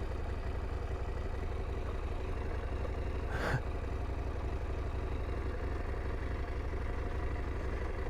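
2022 KTM 890 Adventure R's parallel-twin engine idling steadily while the bike stands still. One short sharp sound about three and a half seconds in.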